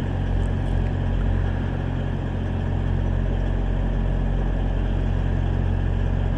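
Motor vehicle engine idling with a steady, unchanging low drone.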